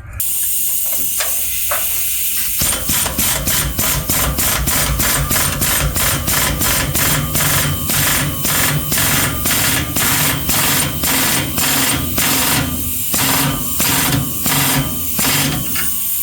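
Power tool tightening the nuts of an exhaust muffler clamp. A hiss opens, then the tool runs in quick even pulses, about three or four a second, over a steady hum.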